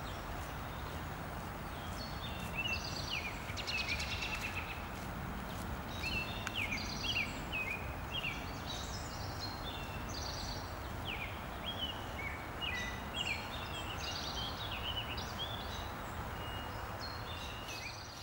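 Songbirds chirping and singing in many short, quick notes, several overlapping, over a steady low background rumble.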